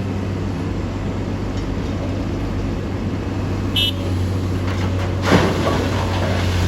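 Excavator's diesel engine running steadily under load, with a brief high squeak nearly four seconds in and a loud rushing crash just after five seconds that dies away over about a second.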